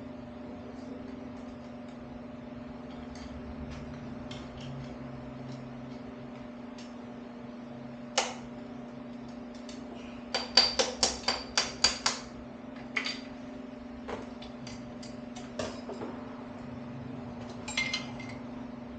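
Metal tools and engine parts knocking together during an engine teardown. There is a single sharp knock, then about ten seconds in a quick run of about eight ringing metallic taps, with scattered lighter clicks, all over a steady hum.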